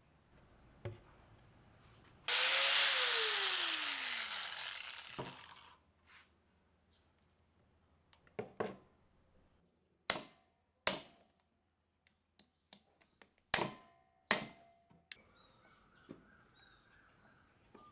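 A power tool is run briefly and spins down, its whine falling in pitch as it fades over about two seconds. Several sharp metallic clinks follow, each with a short ring.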